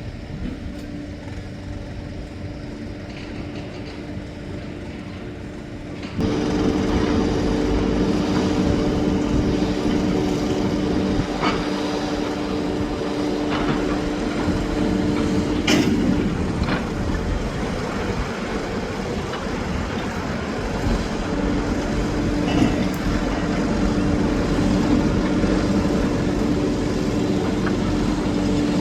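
An engine running with a steady hum that grows louder about six seconds in, with a few sharp knocks here and there.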